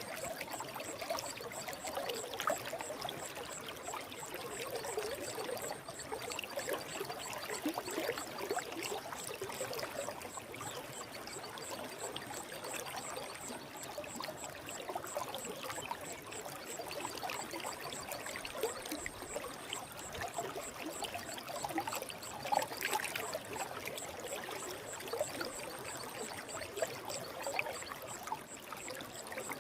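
Forest stream flowing, with a steady trickling, splashing rush of water.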